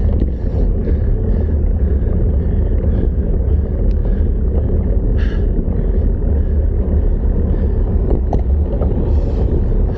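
Wind buffeting the microphone of a bicycle rider coasting downhill, a steady loud low rumble, with a couple of faint clicks.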